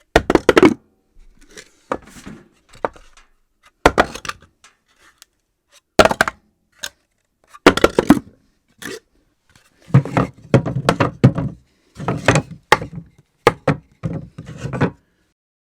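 Objects dropped onto a floor, about a dozen impacts at irregular, random intervals. Some land with a single knock and others bounce and clatter for up to a second.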